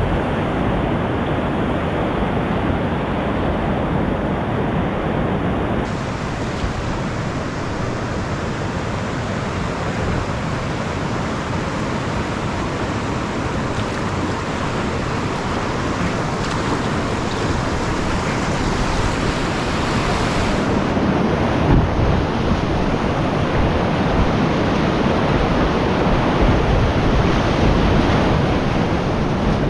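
Rushing whitewater of a creek's rapids, a steady dense noise with wind noise on the microphone, getting a little louder in the last third.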